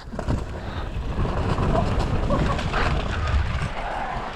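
Wind buffeting the microphone over the rattle and rumble of a mini bicycle's tyres rolling fast down a rough dirt trail.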